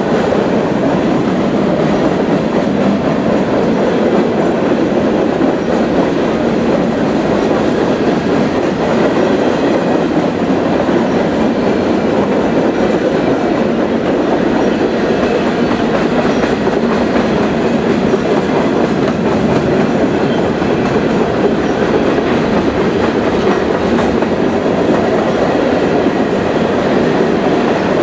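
Train cars rolling past on the track: a loud, steady rumble and clatter of steel wheels on rail that holds without a break.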